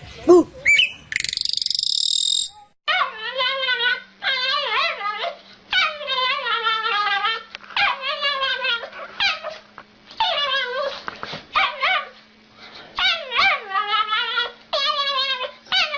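A pet animal's voice in a run of long, wavering, pitched calls, one after another with short gaps, like an animal trying to 'talk'. A brief high squeal comes before them in the first couple of seconds.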